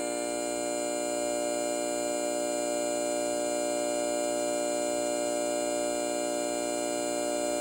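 ACA Hurricane MK1 synth siren sounding its noon blast, holding a steady chord of several tones at full pitch.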